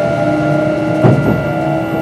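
A Kintetsu 22600 series train running, heard from on board. Its Mitsubishi IGBT-VVVF inverter gives steady whining tones over the rumble of the wheels, and a wheel knocks over a rail joint about a second in.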